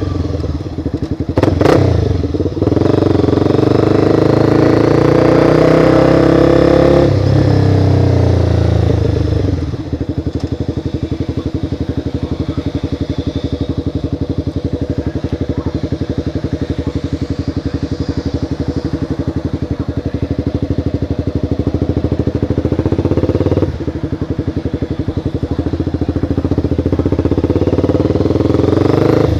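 Motorcycle engine heard from the bike: it revs up under acceleration for several seconds, drops back, then runs steadily at low revs with even firing pulses, and climbs in revs again near the end. A short sharp click comes about a second and a half in.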